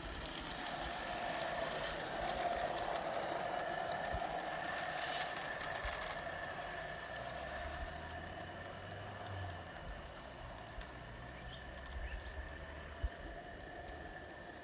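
Wilesco Lucas live-steam model locomotive running along the track with its carriages: a steady hiss with a faint whine and a few light clicks, a little louder in the first few seconds and fading off toward the end.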